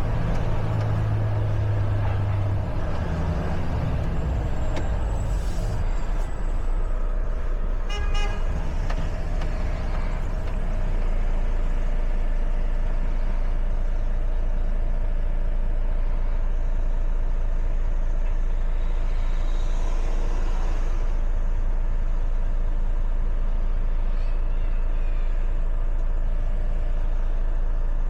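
Truck's diesel engine running steadily, heavier for the first couple of seconds, with a brief horn toot about eight seconds in.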